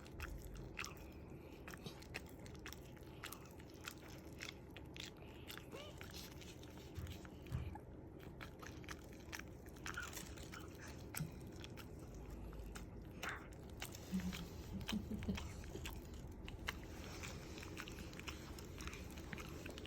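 A dog chewing and biting on sweet potato: a run of short, irregular crunchy clicks of its teeth.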